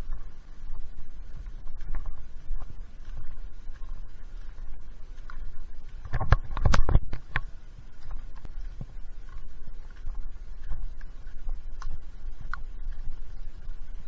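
Footsteps and rustling from walking a wet trail, over a steady low rumble, with a brief burst of louder crunching and scraping about six to seven seconds in.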